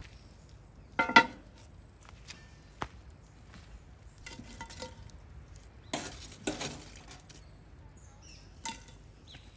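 Metal cookware and utensils clinking and knocking during campfire cooking: a handful of separate strikes, the loudest about a second in with a short metallic ring.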